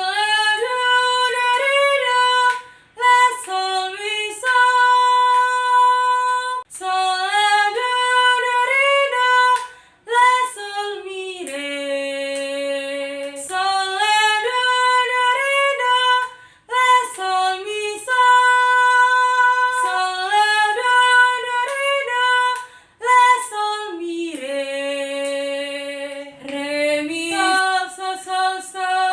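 A woman singing a melody without accompaniment, in phrases separated by short breaths.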